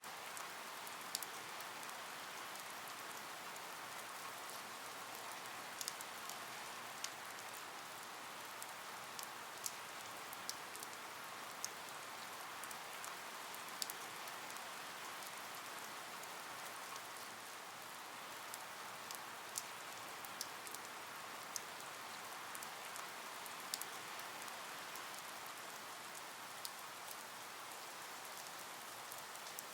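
Steady rain hiss with scattered sharp ticks of individual drops striking a surface.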